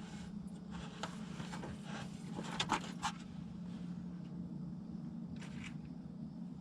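A radiator being handled and set into place, giving a few short knocks and clatters in the first half and a brief scrape or rustle near the end, over a steady low hum.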